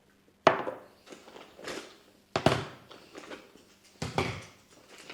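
Three sharp knocks, roughly two seconds apart, with lighter clatters and rustling in between, as of things being handled and set down.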